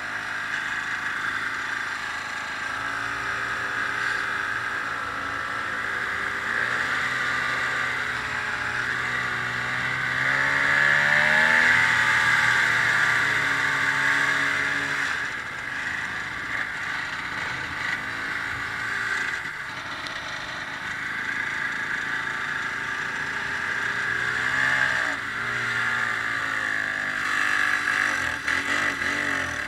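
Ski-Doo snowmobile engine running under way, its pitch rising and falling with the throttle. Loudest as it speeds up about ten to fourteen seconds in, with another rise near the end.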